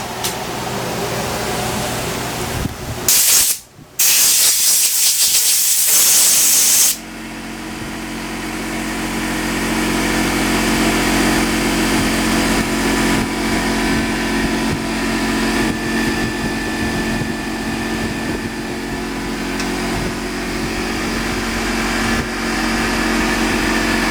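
Loud hissing from about 3 to 7 seconds in, broken by a short gap. Then a workshop machine's motor runs with a steady hum that slowly grows louder.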